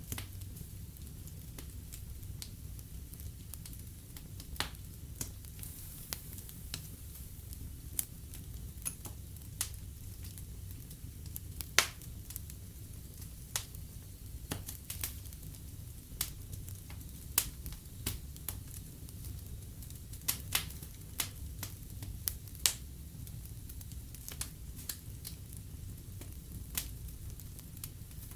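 Fireplace fire crackling: irregular sharp pops and snaps, a few every couple of seconds, over a low steady rumble of the flames. The loudest pop comes about twelve seconds in.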